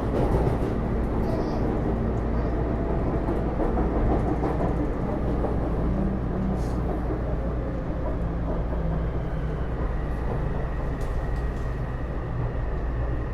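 Taipei Metro C301 train car running, heard from inside the car: steady rolling noise from the wheels on the rails, with a faint high steady tone and brief low humming tones from the Bombardier IGBT-VVVF traction equipment.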